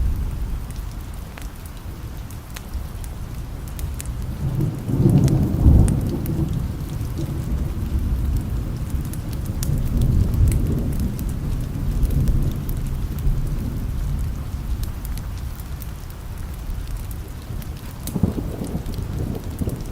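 Steady rain with rolling thunder. A deep rumble swells about five seconds in, a weaker one follows, and another comes near the end, over scattered sharp drop ticks.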